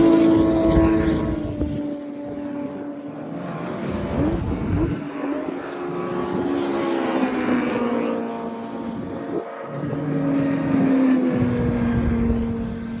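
Race car engines passing at speed, their pitch falling as each goes by; loudest at the start and again around ten seconds in, quieter between.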